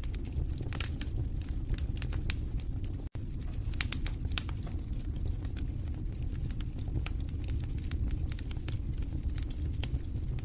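Wood fire in a fireplace crackling: irregular sharp pops and snaps over a steady low rumble of burning flames, with a momentary dropout about three seconds in.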